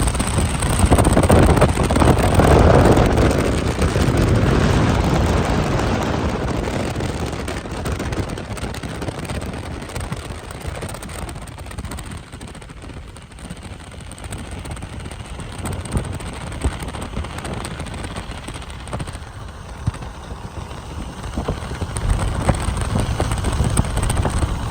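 Rain and traffic on a wet road: a steady rushing hiss with scattered ticks. It is loudest in the first few seconds, then eases off.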